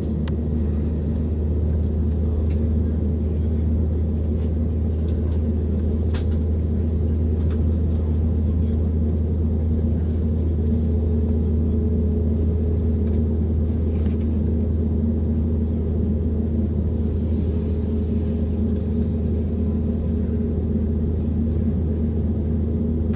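Steady low rumble and hum of an Airbus A321neo's engines and airframe heard inside the passenger cabin, with a faint steady tone coming in about ten seconds in.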